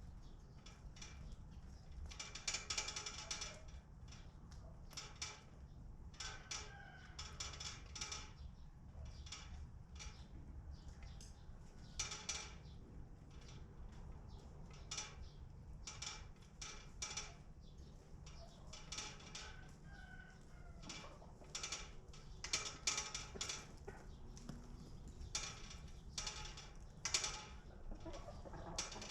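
Flock of domestic chickens clucking, with many short calls in irregular succession and a rooster crowing among them. A steady low hum runs underneath.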